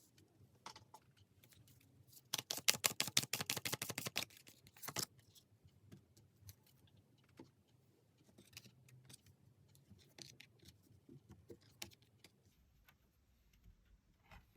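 Tarot cards being shuffled: a quick run of crisp card clicks for about two seconds, then scattered lighter taps and flicks as the cards are handled.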